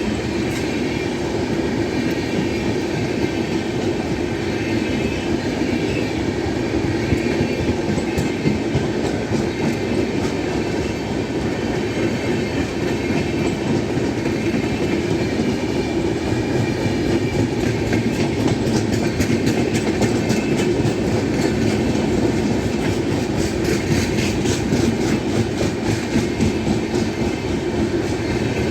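Indian Railways passenger train running past at speed, a steady rumble with the rhythmic clickety-clack of its coach wheels over the rail joints, which becomes sharper and more distinct in the second half.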